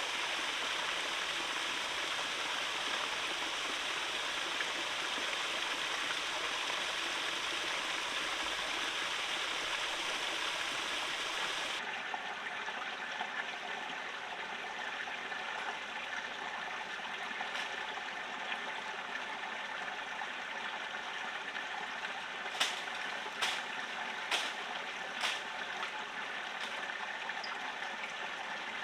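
A forest stream running steadily. About halfway through the water sound changes abruptly and becomes thinner, and near the end there are five or six sharp knocks, about a second apart.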